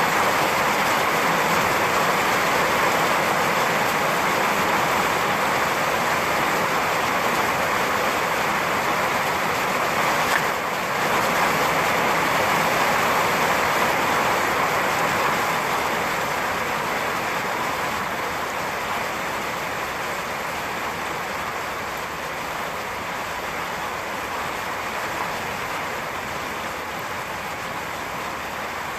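Steady heavy rain falling, an even hiss of water that grows gradually quieter over the second half, with a brief dip about ten seconds in.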